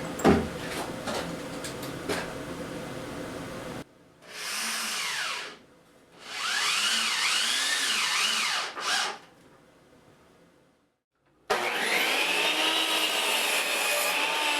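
A handheld power tool's motor runs in three separate bursts, its pitch swinging up and down in the first two; the last starts about three quarters of the way in and runs longer and steadier. A single sharp knock comes just after the start.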